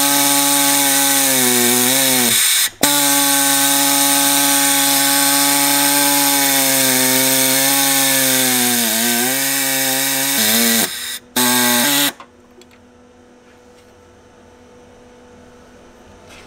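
Electric power tool cutting, its motor pitch dipping as it bites in, cutting off an unused clip to make room for an intercooler pipe. It runs about three seconds, stops briefly, runs again for about eight seconds, and gives a short last burst before stopping about twelve seconds in, leaving a faint hum.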